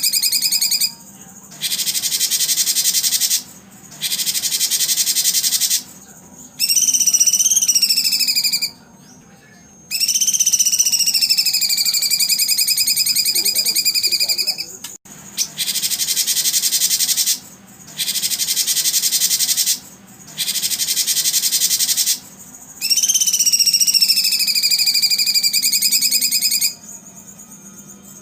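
Recorded songbird song played loud: repeated phrases of about two seconds with short pauses between them, some a fast buzzy trill and others long whistled notes that dip and rise in pitch.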